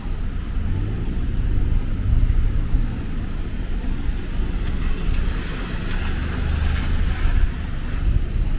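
Street traffic rumbling on a rain-wet road, with a swell of tyre hiss from a passing vehicle a little past the middle.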